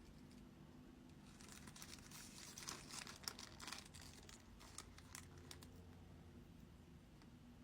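Crinkling and rustling of a food wrapper or packaging being handled and opened, a flurry of crackles in the first few seconds, over a faint steady hum.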